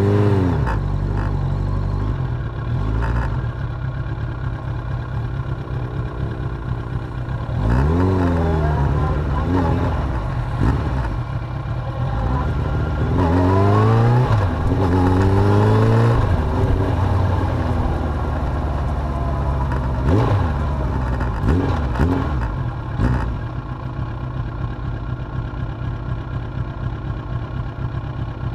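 Suzuki GSX750F inline-four motorcycle engine running on the move. The revs climb and drop about eight seconds in, then climb through a run of quick rises around fourteen seconds before settling back to a steadier note.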